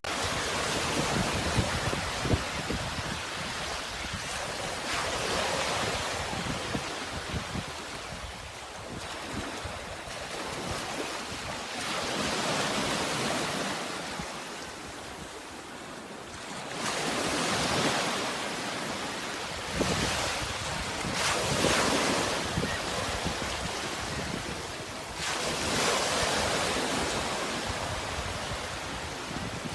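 Sea waves washing in and breaking in repeated swells every few seconds, with a low wind rumble on the microphone.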